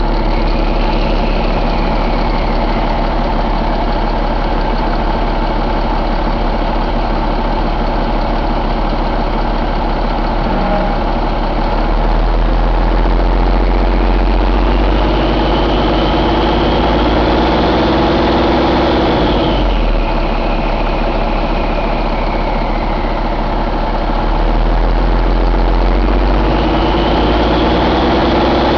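2016 Cummins ISX15 inline-six diesel engine idling steadily, with a high whine that rises and falls, swelling twice for a few seconds.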